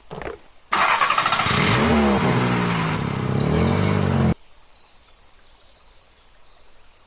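An engine revving up and down for about three and a half seconds, starting and cutting off abruptly, followed by faint birds chirping.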